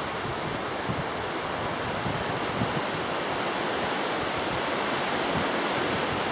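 Strong, gusting wind buffeting the microphone: a steady rushing noise with irregular low rumbles from the gusts.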